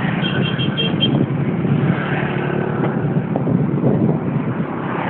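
Mountain bike riding over a dirt trail: a steady rumble of tyres and rattling bike with wind on the microphone. Five short, evenly spaced high pips sound in the first second.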